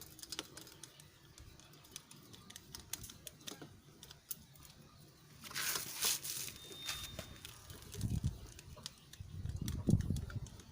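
Scattered light clicks and taps, with a short rustling hiss about six seconds in and a few dull low thuds near the end.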